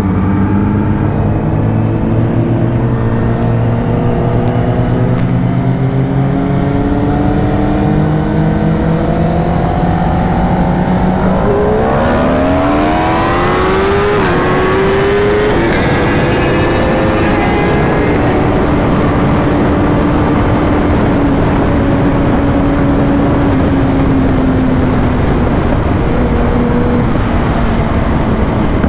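Kawasaki Ninja ZX-10R's inline-four engine accelerating hard. Its note climbs, drops at upshifts about eleven and fifteen seconds in and climbs steeply again, then eases off and falls slowly as the bike settles to cruise. Wind noise on the microphone grows as speed builds.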